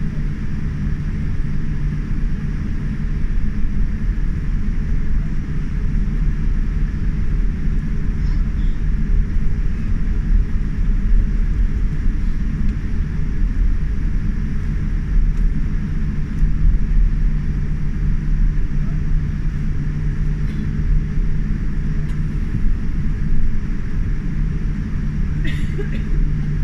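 Boeing 787 Dreamliner cabin noise: a steady low rumble from the engines and airflow, with a constant hum running through it.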